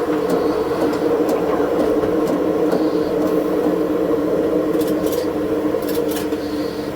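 Diesel railcar running along the line, heard from inside: a steady engine drone with track noise and a few sharp clicks in the second half, sped up to double speed so the pitch is raised.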